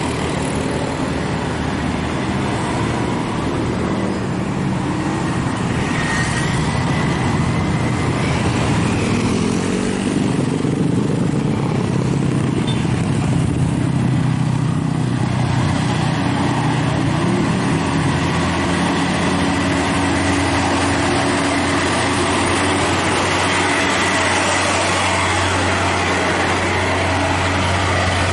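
Dump truck engine labouring under heavy throttle up a steep climb, its pitch shifting in the middle and then settling into a steady low drone.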